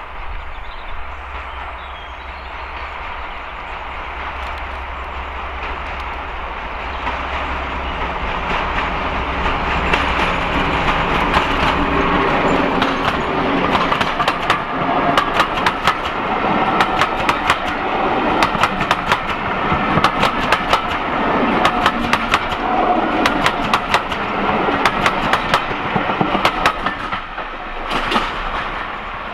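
Diesel-hauled passenger train approaching and passing: the locomotive's low engine hum grows louder, then the coach wheels clatter over the rail joints in a rapid clickety-clack. The clatter dies away near the end as the train goes by.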